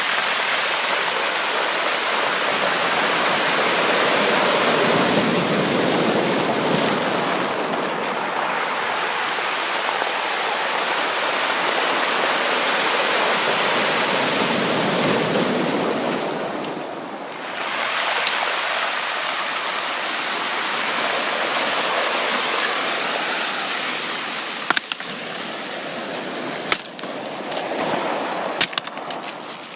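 Sea waves washing onto a beach: a steady rush of surf that swells and falls back twice, dips briefly, then swells again. In the last few seconds several sharp clicks sound over the wash.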